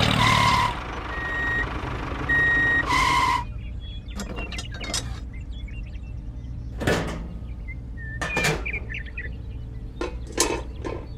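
Reversing beeper of a miniature model construction machine beeping a few times over a steady small-motor hum. After about three and a half seconds the beeping stops and scattered clicks and knocks follow.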